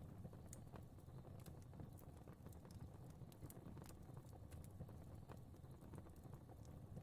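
Fire crackling faintly: irregular small snaps and pops over a low, steady rumble.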